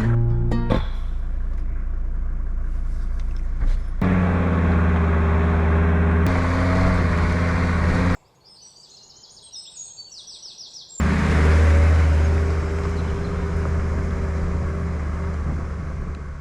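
Mercedes G 250GD Wolf's five-cylinder diesel engine running steadily while driving, heard in several cut-together takes. About eight seconds in it gives way to birdsong for about three seconds, then the engine returns.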